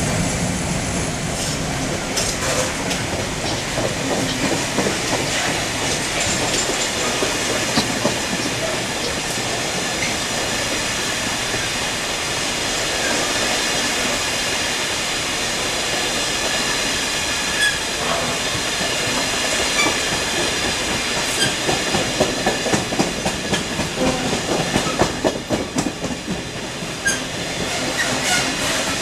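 Empty freight wagons of a diesel-hauled engineering train passing at speed: a steady rumble with wheels clacking over the rail joints, the rhythmic clicks sharper in the last several seconds.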